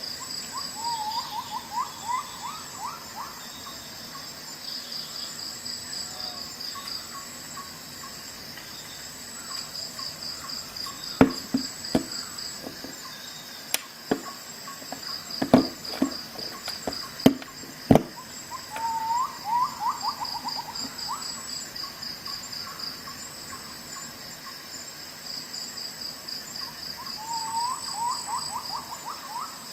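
Crickets chirping steadily, with a quick run of rising call notes from some other animal repeated three times. In the middle, a cluster of about seven sharp clicks and knocks, the loudest sounds.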